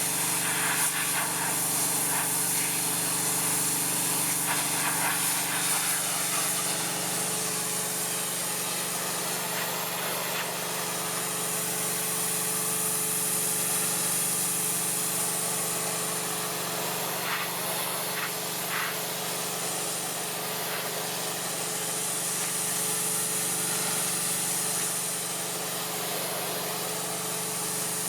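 Pressure washer running, its engine a steady hum under the hiss of the high-pressure spray as the jet strips old stain off wooden siding. The hiss eases and comes back a few times as the wand moves.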